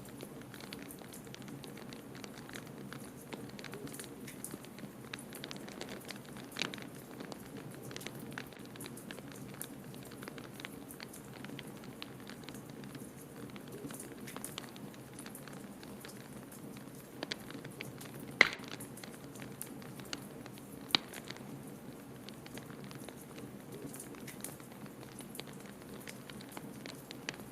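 Wood fire crackling in a fireplace, with many small scattered crackles and two louder sharp pops in the second half, over a steady low rush of blizzard wind.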